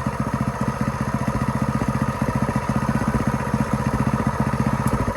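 Ironton 208cc single-cylinder small engine running rough at a steady speed, its firing pulses beating evenly. The owner takes it to be running a little rich and in need of ignition work.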